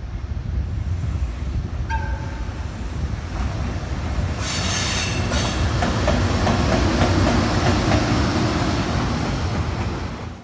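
Train passing close by: a steady, heavy rumble of wheels on the rails, with a loud hiss for about a second near the middle. The sound cuts off suddenly at the end.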